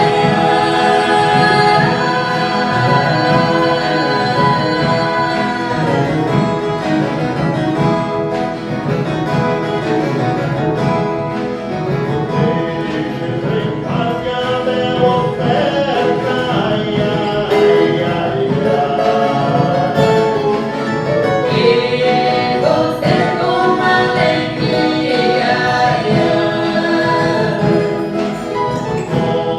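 Several voices singing together as a choir, accompanied by violas caipiras (Brazilian ten-string guitars).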